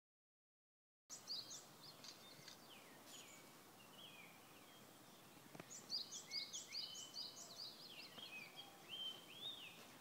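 Wild birds singing: faint, quick chirps and high downward-slurred whistled notes, several overlapping, starting about a second in and busiest around six to seven seconds in.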